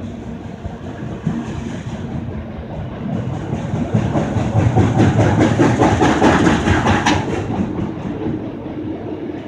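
Long auto rack freight train rolling past at speed, its wheels clacking over the rail joints in a steady rhythm. The rumble swells louder around the middle and eases off toward the end.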